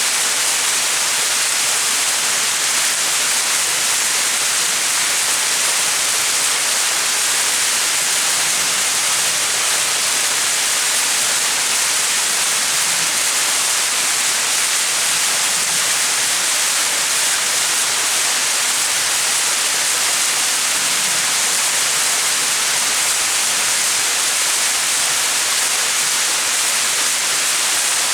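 Small mountain waterfall: a steady, even rush of falling water, strongest in the hiss range.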